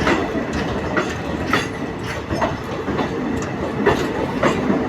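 Train running on the track, its wheels clacking over the rail joints in an irregular rhythm of sharp clicks, roughly one every half second to second, over a steady rumble.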